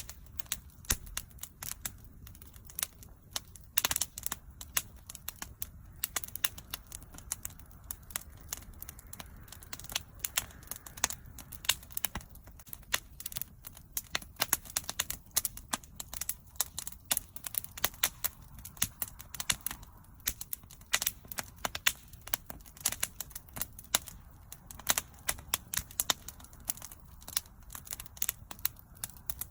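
Wood fire burning, with a dense, irregular crackle of sharp pops and snaps over a soft low rumble of flame.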